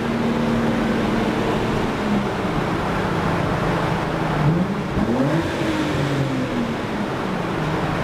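Car engine and road noise heard from inside a moving car on the highway: a steady engine hum, then about four and a half seconds in the engine pitch rises quickly and falls back gradually over a couple of seconds.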